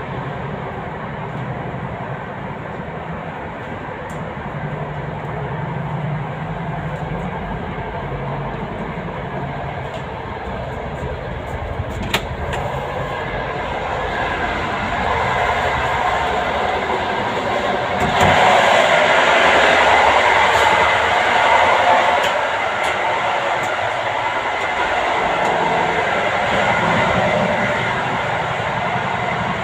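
Running noise of a moving express passenger train heard from inside the carriages: a steady rumble of wheels on rails, with one sharp click about twelve seconds in. The noise grows louder from about halfway and is loudest for a few seconds while passing through the gangway between cars, then settles in the compartment-car corridor.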